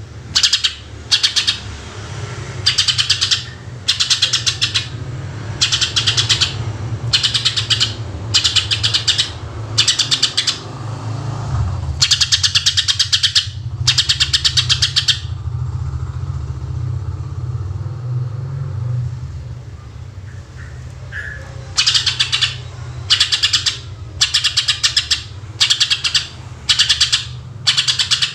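Greater green leafbird (cucak ijo) singing in short phrases of rapid-fire trilled notes, one phrase about every second, with a pause of several seconds midway. A steady low rumble runs underneath.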